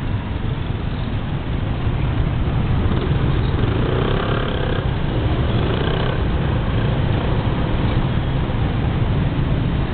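Riding noise of a 125cc scooter at speed in motorcycle-heavy city traffic: a steady low rumble of engine and road noise with wind rush. A faint wavering tone sounds about four seconds in.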